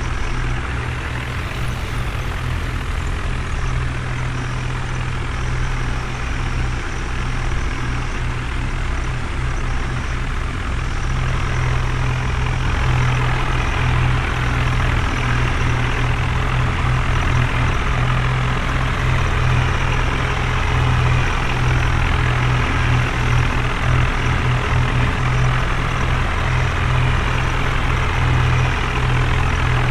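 Heavy diesel engine of a tractor or backhoe loader running steadily, working a little harder and louder from about eleven seconds in.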